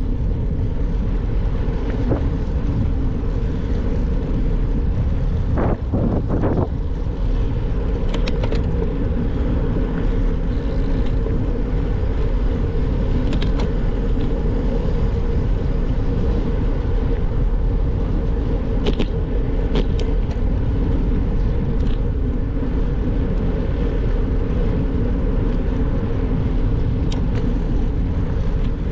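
Steady rumble of wind and road noise while riding, with a short swell about six seconds in and a few brief clicks.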